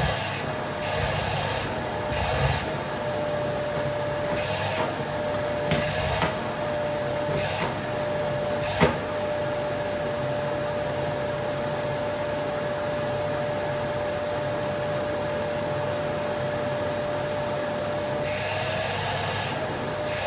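Vacuum cleaner running steadily with a motor whine, with scattered knocks and clicks in the first half and one sharp click about nine seconds in.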